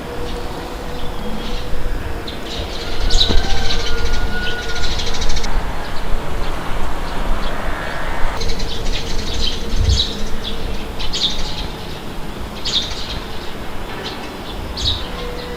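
Small birds chirping in short, repeated bursts over a low wind rumble.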